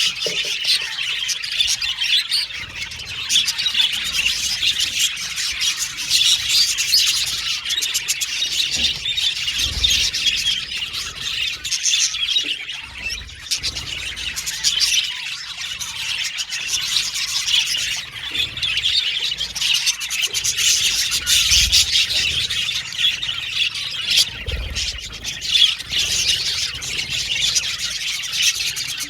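A flock of budgerigars chirping and chattering continuously, with many overlapping high warbles and squawks.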